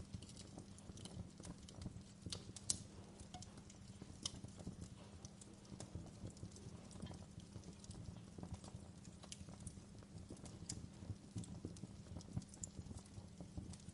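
Wood fire burning in a fireplace: irregular crackles and small pops over a low, steady rumble of the flames, with one sharper pop a little under 3 seconds in.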